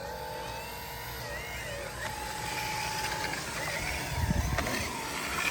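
Steady whine of a radio-controlled construction model's small electric motor, with a low rumble about four seconds in.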